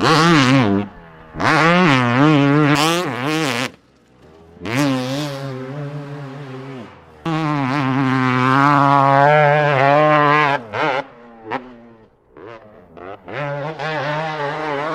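Two-stroke dirt bike engine revving hard on the throttle, its pitch wavering rapidly up and down as the rider blips and shifts. It drops off briefly about four seconds in and again near the end.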